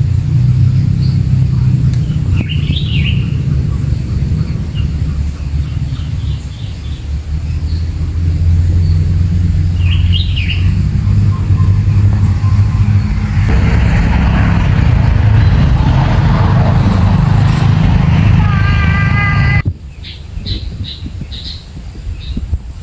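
Short bird chirps twice over a steady low rumble. A brief run of evenly spaced notes comes near the end, then the rumble cuts off suddenly, leaving a few quick chirps.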